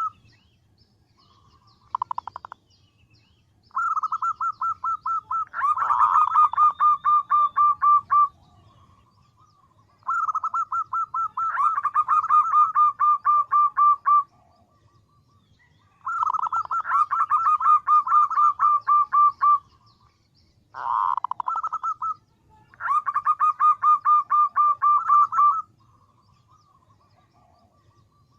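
Female zebra dove (perkutut) calling: repeated bouts of rapid, staccato cooing notes, about six a second, each bout running for a few seconds with short pauses between. It is the call used to lure male zebra doves.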